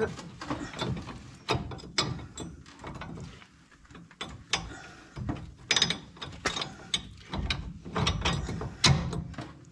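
Hand ratchet wrench clicking in short, irregular strokes, with metal clinks, as a bolt is run in on a disc brake conversion bracket.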